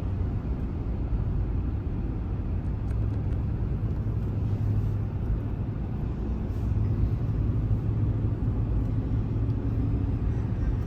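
Steady engine and road rumble heard from inside the cabin of a moving vehicle towing a camper.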